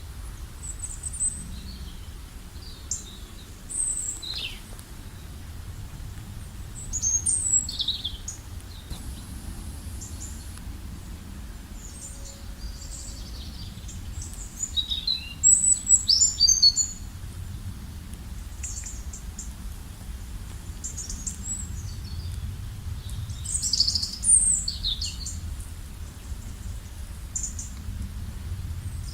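Wild birds chirping and calling in short, high-pitched notes and trills, scattered throughout, with the busiest and loudest flurry about halfway through. A steady low rumble runs underneath.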